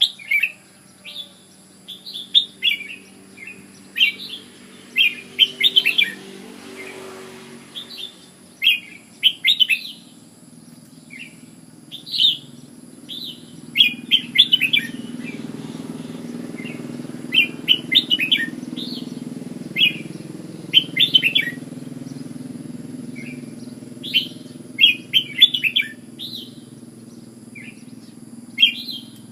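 Red-whiskered bulbul singing: short, bright warbling phrases repeated every second or two, over a low background hum that grows louder through the middle.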